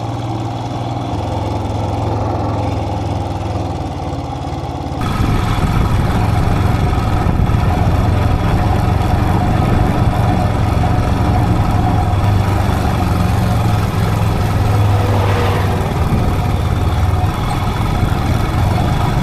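Royal Enfield motorcycle engine running steadily at low speed as it is ridden. About five seconds in, a louder hiss joins the drone.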